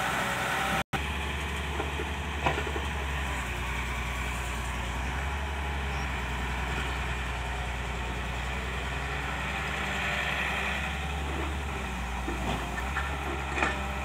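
Heavy diesel engine running steadily, with a few short knocks, one about two and a half seconds in and another near the end. The sound drops out completely for an instant about a second in.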